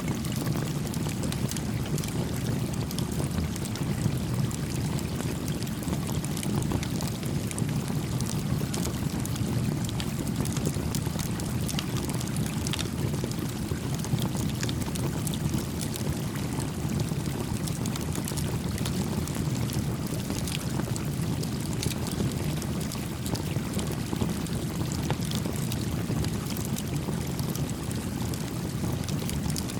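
Small campfire crackling with scattered sharp pops over the steady low rush of a gently flowing creek.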